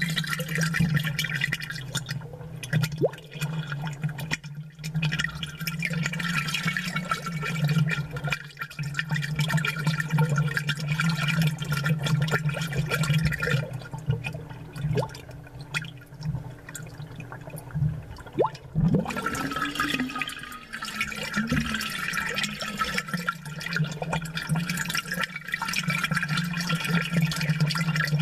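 Aquarium bubbles, closely miked and amplified, gurgling and popping as they rise, over a steady low hum. The bubbling thins out for a few seconds past the middle, then picks up again.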